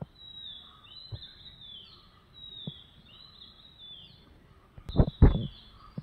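A bird singing in the background, a high chirping phrase repeated over and over. Soft handling knocks come through, then two louder thumps about five seconds in as the cable is handled.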